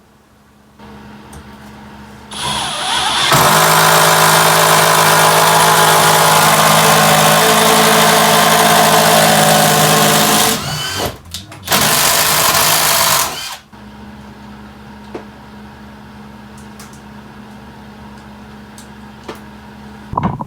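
Handheld electric power tool running under load in two bursts: a long one of about eight seconds, then a short one of about two seconds. A quieter steady hum runs underneath.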